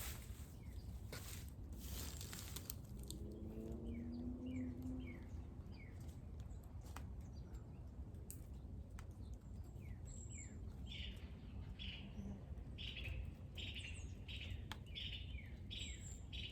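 Small birds chirping: short, quick calls that slide downward, a few at first and then a busy run of them in the second half, over a steady low rumble. The birds are calling to each other as food is put out.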